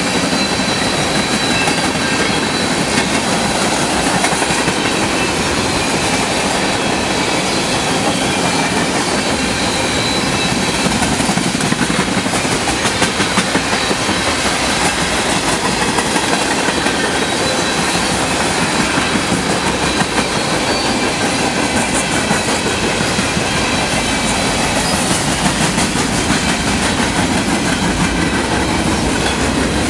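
Freight train's tank cars and boxcars rolling past at speed: a steady rumble of steel wheels on rail with clickety-clack over the rail joints, and a faint high steady tone above it.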